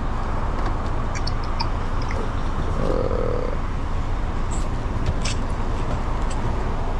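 Car engine idling: a steady low rumble, with a few light clicks over it.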